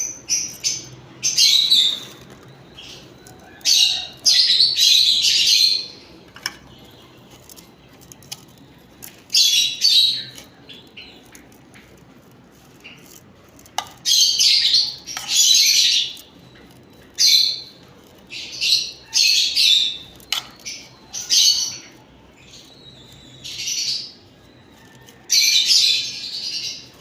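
Lovebirds chattering and chirping in high-pitched bouts of a second or two, with short gaps and occasional sharp clicks between.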